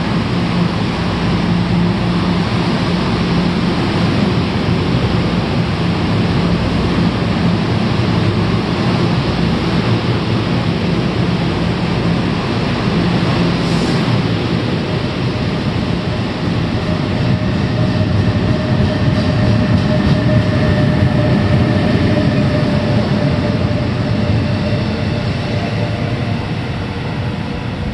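NJ Transit commuter train of multilevel cars hauled by a Bombardier ALP-46 electric locomotive pulling out and running past: a steady rumble of wheels on rail, with a higher whine joining in during the second half. The sound swells to its loudest about two-thirds through, then eases as the cab car pulls away.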